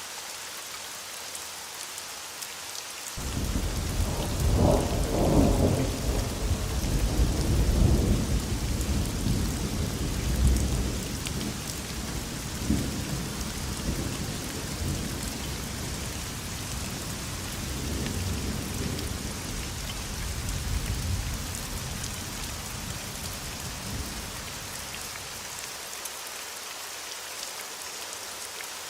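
Steady rain hissing, with thunder breaking in suddenly about three seconds in; the deep rumble is loudest over the next several seconds, then rolls on more quietly and dies away near the end.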